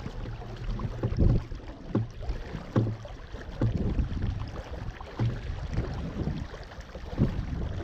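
Water slapping against the hull of a small RS Zest sailing dinghy under way, in irregular low thumps about once a second, with wind buffeting the microphone.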